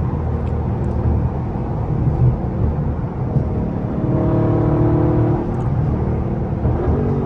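Dodge 392 HEMI V8 (6.4-litre) engine and exhaust under hard driving. A deep, uneven rumble for the first few seconds settles into a steadier engine note from about four seconds in.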